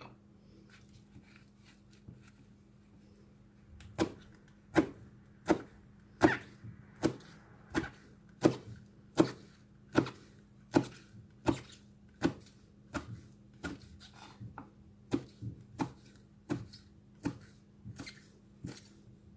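Kitchen knife chopping on a wooden cutting board. A steady rhythm of about three strokes every two seconds starts about four seconds in, after a few light taps.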